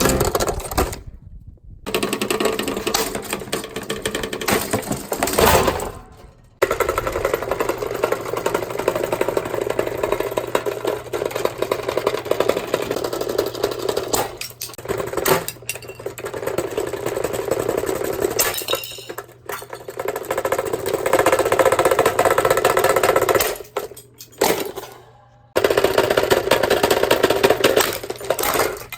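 Dense metallic clattering and rattling from a vintage Toastmaster table fan being wrecked, in several stretches broken by abrupt cuts to silence.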